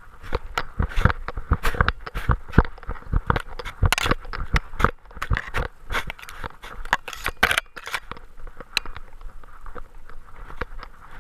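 Irregular knocks, scrapes and rubbing from a camera and its mount strapped to a dog as the dog moves, dense at first and thinning out in the last few seconds.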